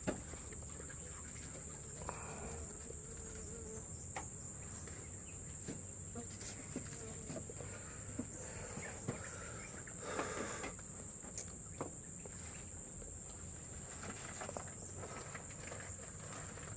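Steady, high-pitched drone of an insect chorus in forest, with scattered small clicks and brief rustles close by.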